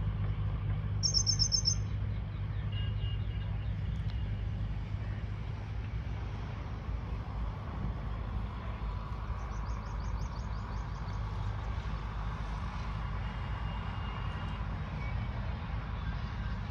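A small songbird gives a rapid, high trill about a second in and a fainter one near the middle, with a few thin chirps between them. A steady low rumble runs underneath.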